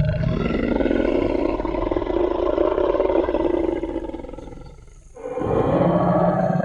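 Designed Tyrannosaurus rex roar sound effect: a long, deep roar that fades out about five seconds in, followed at once by a second roar.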